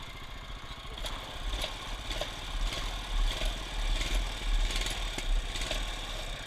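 Minibike's small engine running just after a cold start, unevenly, its level swelling and dropping every second or so, while the cold engine warms up.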